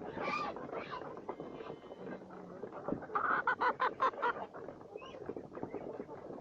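Domestic poultry clucking and calling: one call near the start, then a quick run of about ten short calls around the middle.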